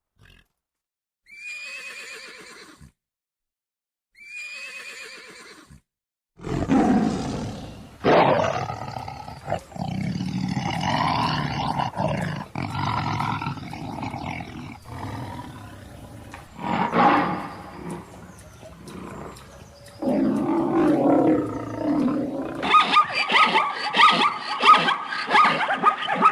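A large wild animal roaring in long, rough stretches. Before it come two short calls that fall in pitch. Near the end, a fast rhythmic clicking takes over.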